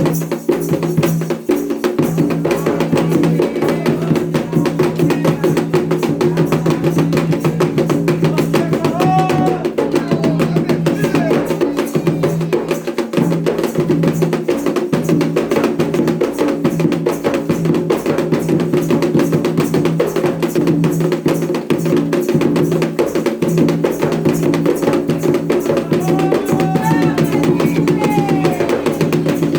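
Candomblé ritual drumming: atabaque hand drums beating a fast, steady rhythm, joined by a clacking percussion instrument, with voices singing briefly a couple of times.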